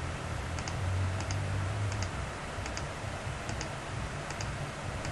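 Computer mouse clicking in short double clicks, press and release, about six or seven times at a slow, fairly even pace, over a low steady hum.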